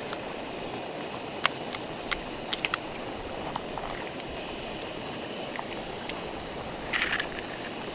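Light clinks and clicks of a utensil mixing food in a small cup or bowl, a few over the first three seconds and one short scrape near the end. Behind them runs a steady outdoor hiss.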